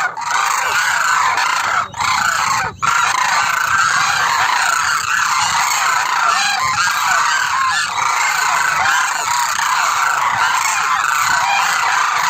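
A large flock of cranes (koonj) calling together, a dense unbroken chorus of overlapping trumpeting calls, broken by two short dropouts in the first three seconds.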